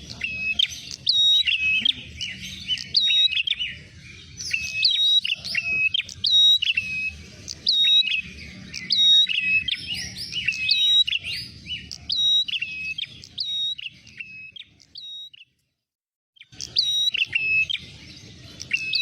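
Prenjak (prinia) birds calling: a dense, fast run of high, sharp chirps repeated over and over. The chirping breaks off for about a second near the end, then starts again.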